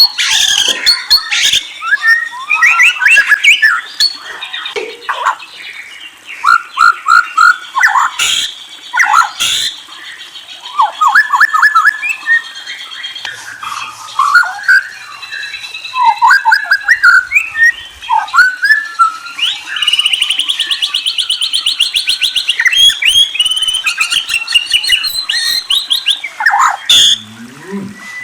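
A murai songbird singing loudly in varied phrases of whistled notes and quick slurred sweeps, with a long, fast trill about twenty seconds in.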